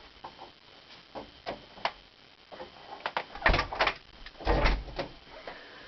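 A house door being opened and shut: scattered clicks of the handle and latch, with two heavier knocks about three and a half and four and a half seconds in.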